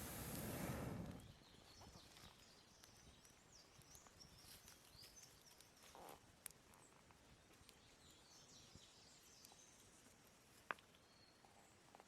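Near silence with faint bird chirps twice, a brief rush of air-like noise at the very start, and a couple of small sharp clicks, one about six and a half seconds in and a louder one near the end.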